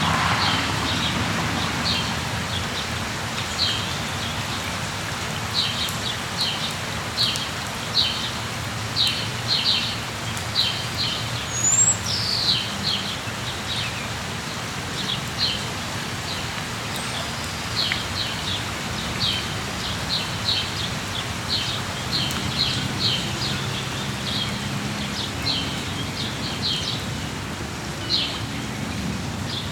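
Steady rain falling, with a bird chirping over it in many short high chirps that come in quick runs. About twelve seconds in there is a brief higher rising whistle.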